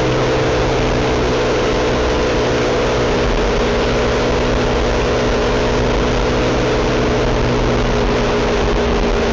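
Motorcycle engine running at a steady speed on the move, its even hum over a constant rush of wind and road noise.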